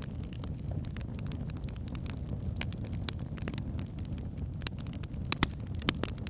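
Wood fire burning in a fireplace: a steady low rumble of the flames with irregular sharp crackles and pops from the burning logs, two louder pops near the end.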